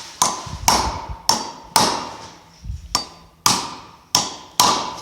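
Two hand hammers taking turns striking steel on a John Deere 530 baler, about two sharp ringing blows a second with one weaker blow midway. They are driving a part loose, most likely a chain pin while breaking the baler's chain.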